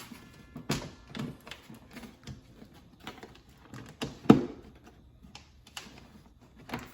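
Irregular plastic clicks and knocks from the car's air filter housing being handled and closed, with one louder knock about four seconds in.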